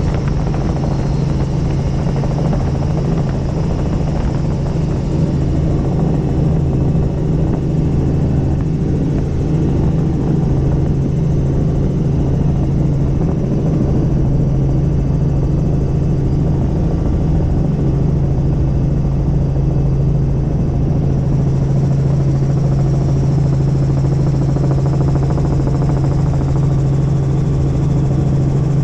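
Helicopter engine and rotor running steadily in flight: a loud, unbroken drone with a strong low hum.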